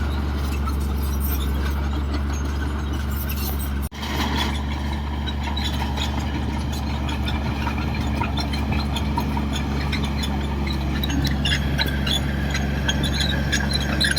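Komatsu D58 bulldozer's diesel engine running with a steady low drone. The sound cuts out for an instant about four seconds in, then carries on, with scattered high squeaks and clinks near the end.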